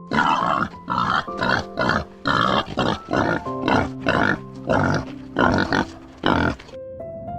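An animal calling in a quick series of about a dozen short, harsh calls, over background music.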